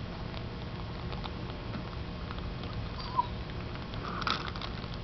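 Blue budgie pecking at seed treats, small scattered clicks of beak on seed, with a short chirp about three seconds in and a brief harsher chirp just after four seconds.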